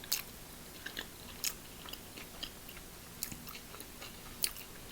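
A person chewing a mouthful of stuffed clam close to the microphone: soft, irregular wet mouth clicks and smacks, with a few sharper ones.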